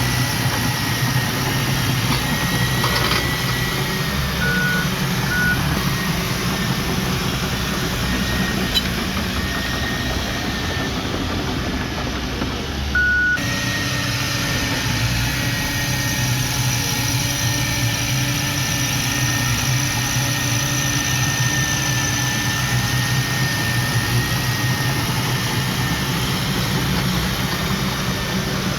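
Heavy diesel earthmoving machinery running steadily, with a few short beeps.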